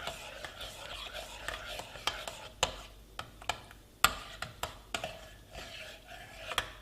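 A spoon stirring thick tablet mixture of melted butter, sugar and evaporated milk in a bowl: continuous scraping and swishing, with occasional sharp knocks of the spoon against the bowl.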